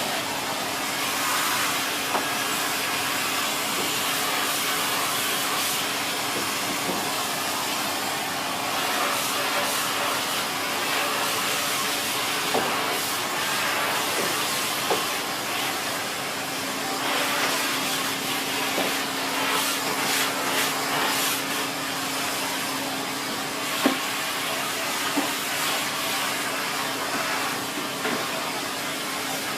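Siemens Z6.0 Power 2500 W bagged cylinder vacuum cleaner running steadily, with a constant motor hum under the airflow noise. A few short sharp clicks and ticks sound now and then, the loudest about 24 seconds in.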